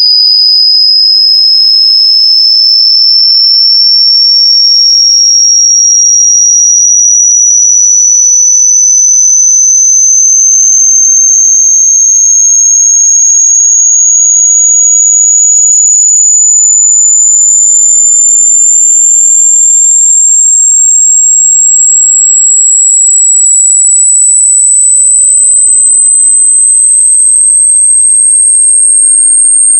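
Electronically generated high-pitched pure tone, very loud and piercing, its pitch rising slowly and steadily, with faint ghost tones gliding up and down beneath it.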